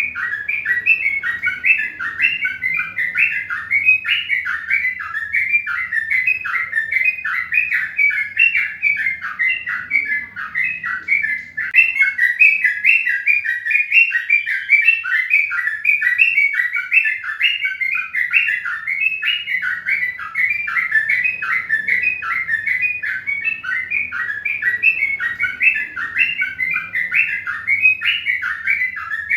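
Many small birds chirping at once: a dense, unbroken stream of short, high, overlapping chirps several times a second.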